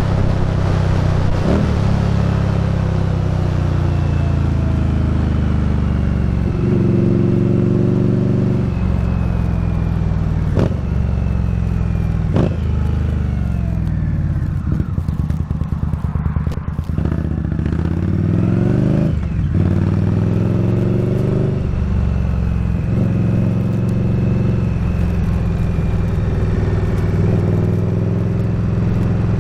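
Indian Scout Bobber's V-twin engine running under way on the road, its pitch rising and falling with the throttle. It slows down to a lower note about halfway through, then pulls up again. A few sharp knocks come through over the wind and road noise.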